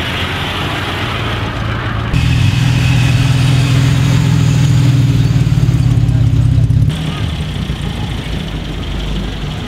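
Classic car engines running as the cars drive slowly past one after another, in three separate clips with sudden changes at about 2 s and 7 s. The loudest is the middle one, a Jaguar XK150 coupé's straight-six running with a steady hum.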